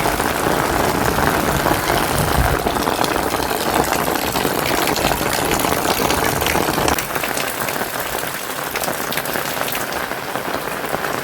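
Heavy rain falling steadily. The deep rumble under it eases about seven seconds in, and the rain then sounds slightly softer.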